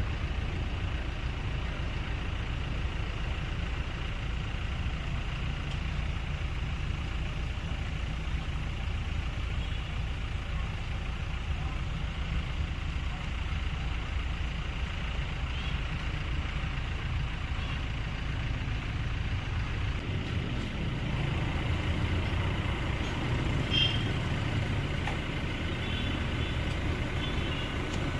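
An engine running steadily with a low rumble, swelling a little about three quarters of the way through.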